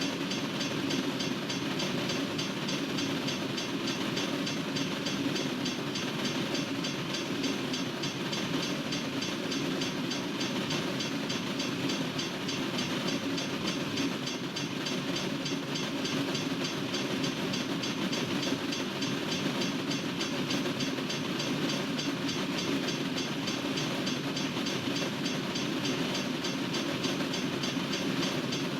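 Freight train cars rolling steadily past, with a continuous rumble and rattle of wheels on the rails.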